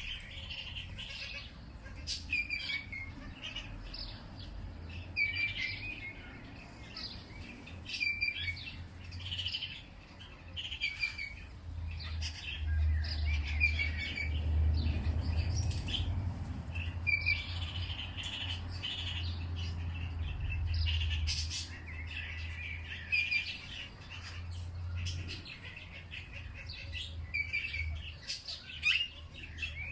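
Songbirds chirping and singing in short, repeated phrases, over a low rumble that swells for several seconds in the middle.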